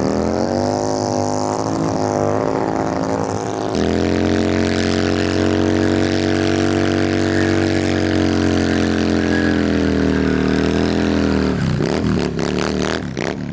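An engine revving up, then held at steady high revs for about eight seconds before the revs drop off near the end.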